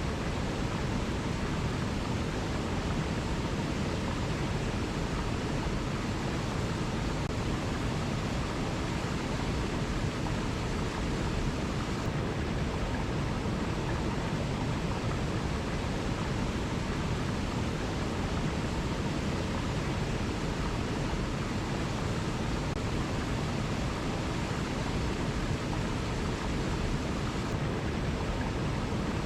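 Waterfall rushing in a steady, even roar of falling water, with no change or break.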